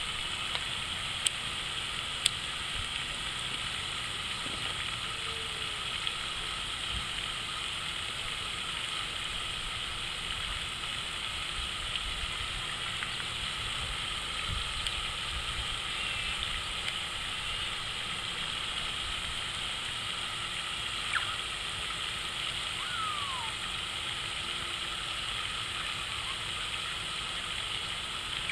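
Water fountain running, a steady splashing of falling water, with a couple of sharp clicks near the start and a brief falling chirp about two-thirds of the way through.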